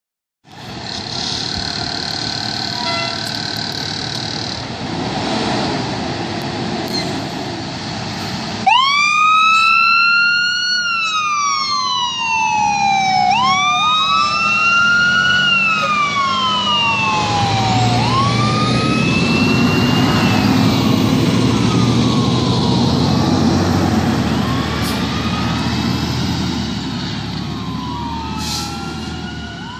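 Fire apparatus siren starting suddenly about eight seconds in and wailing in repeated sweeps, each rising quickly and falling slowly in pitch. It fades after the middle as the heavy truck's engine rumble grows, with road and traffic noise throughout.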